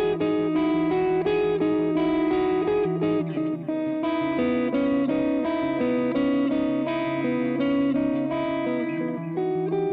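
Siam Custom electric guitar played through a DemonFX Reverb & Delay Workstation pedal and a Nux Amp Academy preamp. Picked melodic notes overlap and ring on over a sustained low note.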